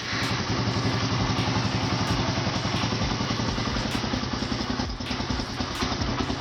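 Spark SP125C-2C motorcycle's single-cylinder 125 cc engine running steadily at a fast idle, with an even, rapid exhaust pulse.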